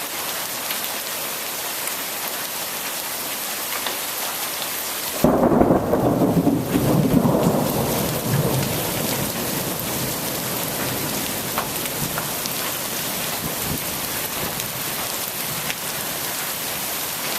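Steady moderately heavy rain hissing. About five seconds in, a sudden loud crack of thunder breaks into a deep rumble that fades away over about three seconds.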